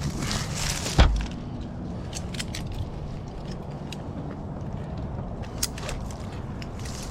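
A short rustle ending in a single heavy thump about a second in, over a steady low rumble, with scattered light clicks and knocks after it.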